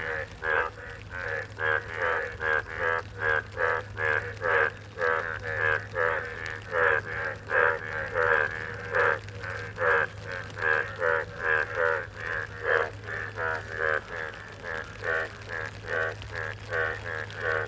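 Frogs calling in a steady series of short, rattling croaks, about two or three a second, over a steady low hum.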